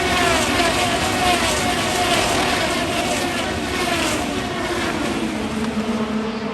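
IndyCar cars at racing speed on the oval, their twin-turbo V6 engines running at high revs. Several cars pass one after another, each engine's pitch falling as it goes by.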